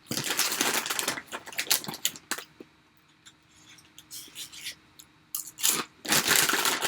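Pork rinds being crunched and chewed close to the microphone: crisp crackling in a long spell at the start and again near the end, with scattered small crunches between.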